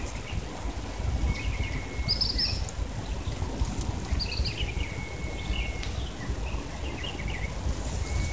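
Birds chirping outdoors: short high calls and a few longer, level whistled notes over a steady low rumble.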